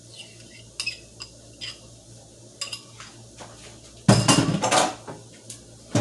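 Spoon or spatula clinking and scraping against a mixing bowl and baking pan as cornbread batter is poured into a buttered pan. There are light clicks at first, then a louder clatter of cookware for about a second, four seconds in.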